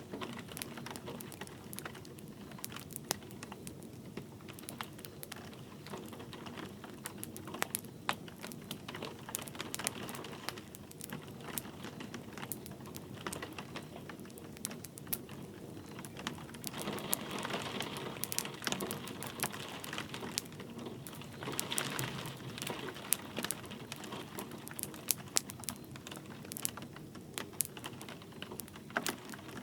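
Wood fire crackling, with sharp irregular pops and snaps over a steady bed of light rain; the fire hisses up more strongly twice in the second half.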